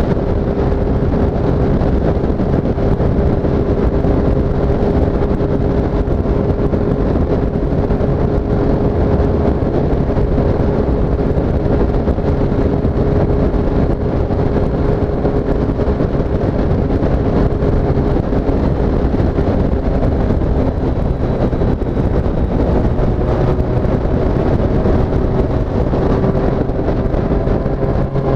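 Triumph Street Triple S's 765 cc inline three-cylinder engine running at a steady cruise, over wind and road rumble. The engine note holds steady, dips slightly a little past the middle and climbs again near the end.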